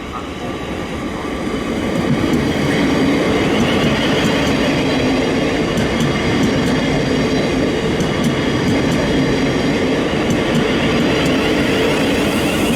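A train running close by on the line, getting louder over the first two seconds and then holding steady, with faint ticks of the wheels through the middle.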